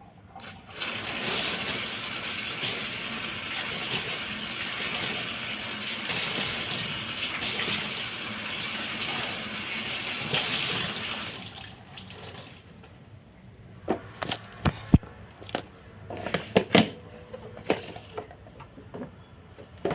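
Water running hard for about ten seconds, then stopping, followed by a string of sharp knocks and clatters.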